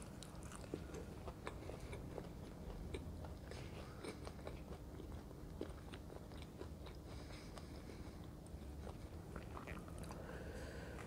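Close-miked chewing of crispy fried gram-flour fritters (pakoras), with scattered sharp crunches and wet mouth clicks.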